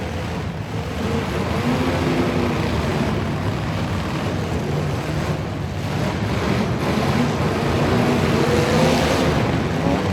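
Truck engine running and revving, its pitch rising and falling, over a steady rushing noise.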